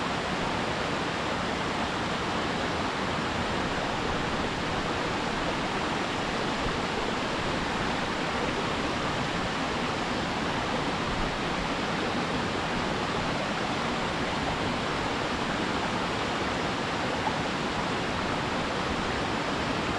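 Waterfall pouring steadily into its plunge pool, a constant even rush of falling water.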